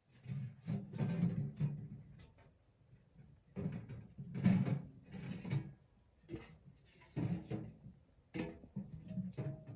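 A series of knocks and scrapes from objects being handled and moved, in about seven short bursts with sharp clicks among them.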